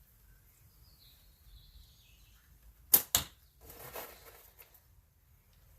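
A slingshot shot: two sharp cracks about a fifth of a second apart, the bands snapping forward on release and then the ammo striking a 60 mm steel spinner target about 40 feet away, followed by about a second of rattling.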